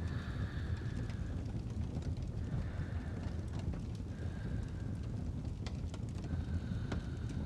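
Fireplace crackling with a few sharp pops over a steady low rumble, with soft sleep breathing, a breath roughly every two seconds.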